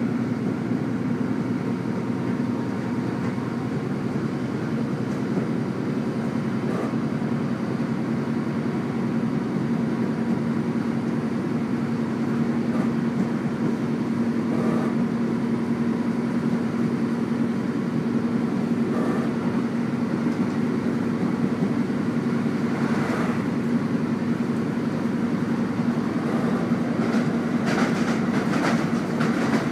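Diesel multiple-unit passenger train running at speed, heard from inside the carriage: a steady engine hum over the rumble of wheels on the track. A few knocks from the wheels passing rail joints come through, more often near the end.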